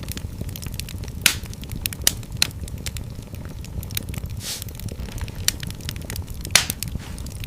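Fire crackling in a fireplace: a constant low rumble of flames with scattered sharp pops. Two louder pops come about a second in and near the end, and a brief hiss comes midway.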